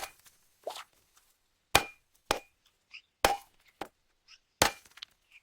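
A string of short, sharp cartoon sound effects: about five loud pops with fainter ones in between, unevenly spaced, with silence between them.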